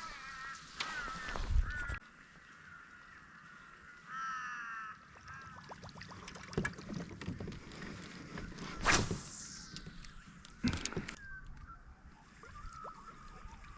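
Short pitched, wavering animal calls from the water's edge, a few near the start and a cluster about four seconds in. Scattered knocks and a falling whoosh about nine seconds in.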